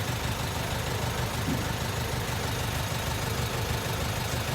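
Garbage truck's engine idling with a steady low hum.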